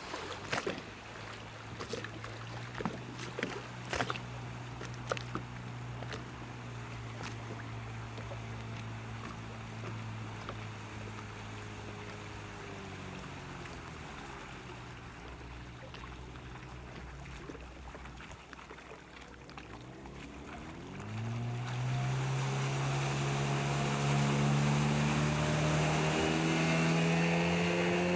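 15 hp outboard motor on an SB 360 RC rigid inflatable boat running at low revs, with several sharp knocks in the first five seconds. About three quarters of the way through the throttle opens: the engine gets much louder and its pitch keeps climbing as the boat speeds up, over a hiss of water and wind.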